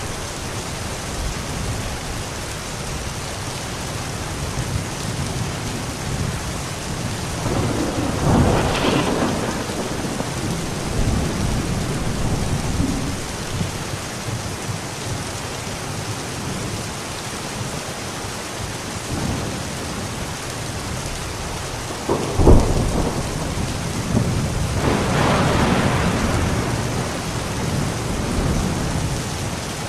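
Steady rain falling, with thunder rolling twice: one rumble about a third of the way in, and a sharp thunderclap about two-thirds in, followed by a longer rumble.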